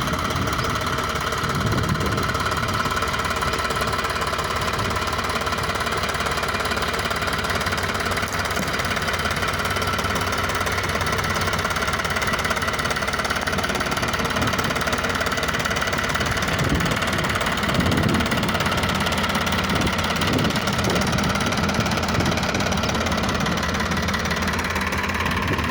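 Tractor's diesel engine running steadily with a knocking chug, swelling a little now and then.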